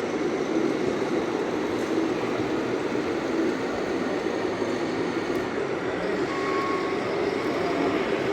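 Steady running noise of radio-controlled model trucks' small electric motors and gearing.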